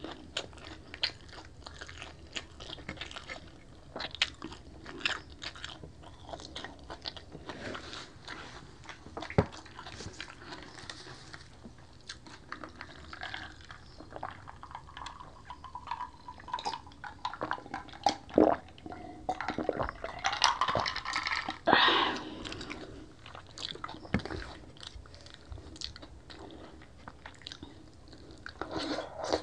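Close-miked chewing and crunching of crispy fried pork belly (lechon kawali) and rice, with many sharp crackles from the crisp skin. Partway through come a few swallows of a drink.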